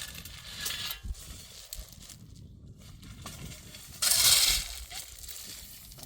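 Small stones and gravel crunching and scraping, with one louder rushing burst about four seconds in that lasts about half a second.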